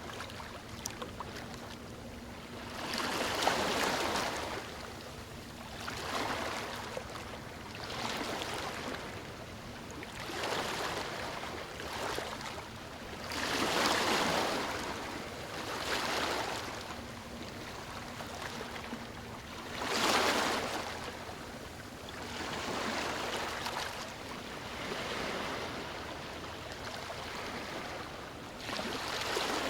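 Sea waves breaking and washing in, one surge of surf after another every few seconds, each swelling and then falling away, with a few waves noticeably louder than the rest.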